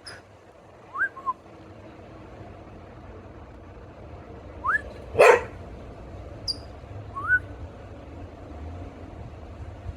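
A small songbird gives short, sharp, high chirps about three times, and each is answered by a person's short rising whistle. About five seconds in comes one loud, short dog bark.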